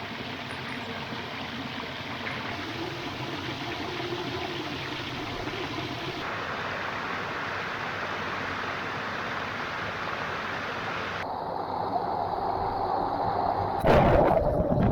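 River water rushing steadily over rocks, its tone changing abruptly twice. Near the end a louder, deeper rumble cuts in.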